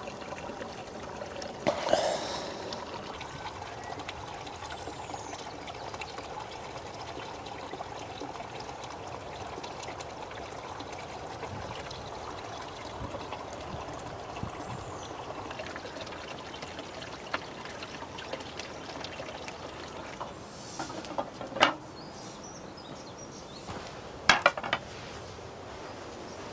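Steady rain with water trickling and running off. A few sharp knocks come about two seconds in and twice near the end.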